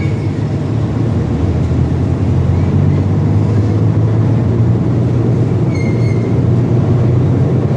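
Heavy truck engine running with a steady low drone, with two short high squeaks, one at the start and one about six seconds in.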